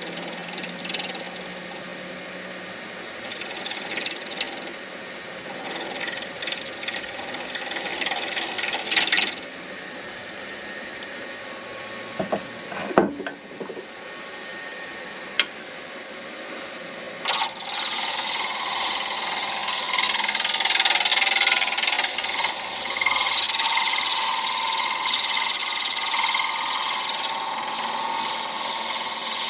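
Midi lathe spinning an acrylic pen blank while a turning tool cuts it back to round after it had gone oblong, in short passes at first. Quieter for a few seconds in the middle with a few sharp knocks, then the cutting is louder and continuous from a little past halfway.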